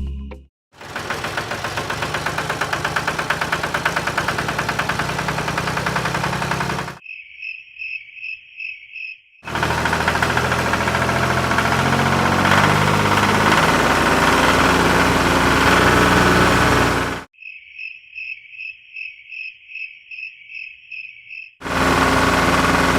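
A small engine running steadily in three stretches, cut hard against two stretches of high, evenly spaced chirping at about three to four chirps a second.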